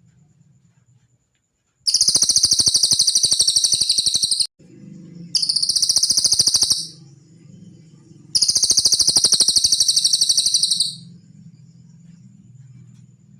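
Cililin bird song: three very rapid, high trills, the first and last about two and a half seconds long and the middle one shorter, each starting and stopping abruptly, over a faint low hum.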